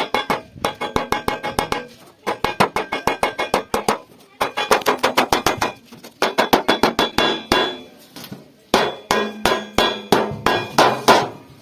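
Hammer striking sheet metal being shaped into a pot, fast blows several a second in runs of a second or two with short pauses, the metal ringing after each blow.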